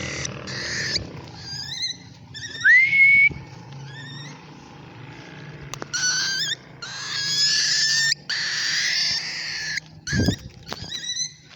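Cockatiel calling: short chirps and longer harsh, scratchy calls, with one clean whistle that rises and then holds for about half a second near three seconds in.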